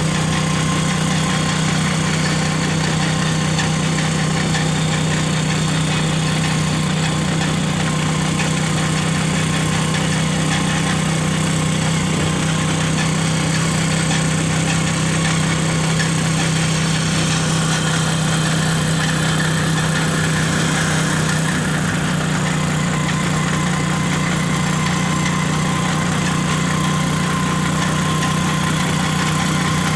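A vehicle engine running steadily with a constant low hum. Its note shifts slightly about two-thirds of the way through.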